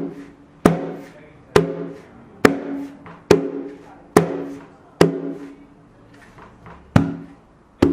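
Atabaque hand drum struck with single slap strokes: eight sharp cracks at a slow, even pace of about one a second, each followed by a short ringing drum tone, with one beat left out past the middle.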